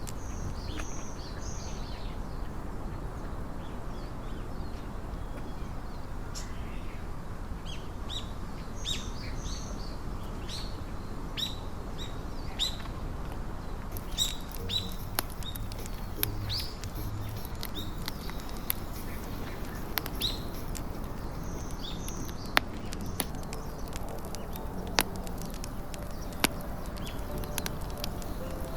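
Small birds chirping, short quick calls repeated many times over a steady outdoor background hiss. A few sharp clicks or snaps come in the second half.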